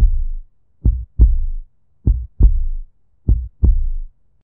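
Heartbeat beating in a steady lub-dub rhythm: paired low thumps, about one beat every 1.2 seconds, four beats in all, stopping shortly before the end.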